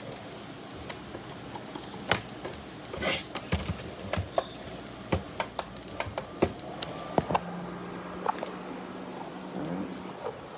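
Clicks and knocks from handling a mini portable air cooler, over a steady hiss. A low steady hum comes in about seven seconds in and stops just before the end.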